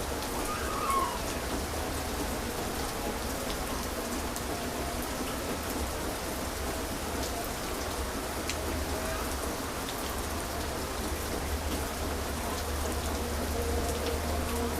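Heavy rain falling steadily on surfaces, with scattered sharp drip ticks and a steady low rumble underneath.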